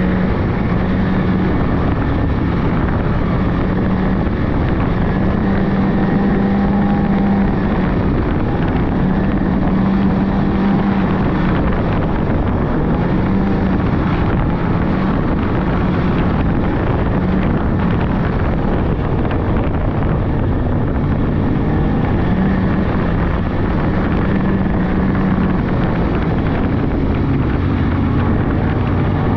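Polaris 600cc two-stroke snowmobile engine running steadily while riding, its pitch rising and falling a little with the throttle, with wind rushing over the microphone.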